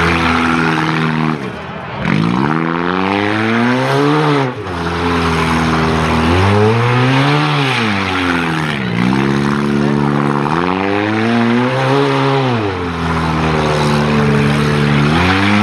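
Small demolition-derby cars' engines revving hard, the pitch climbing and falling in about five surges as the drivers accelerate and lift off, over a steady hiss of tyres spinning on loose dirt.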